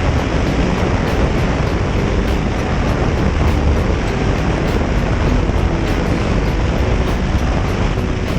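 Motorcycle riding along at a steady pace: a constant rush of wind on the microphone mixed with engine and road noise.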